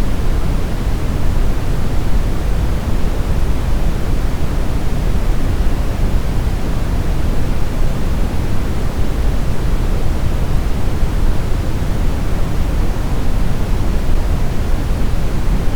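Brown noise: a steady, deep, rumbling hiss with most of its weight in the bass, unchanging throughout.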